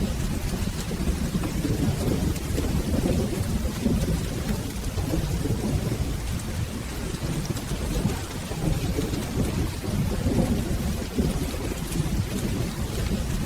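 Steady rain with a continuous low rumble of rolling thunder, no single sharp thunderclap.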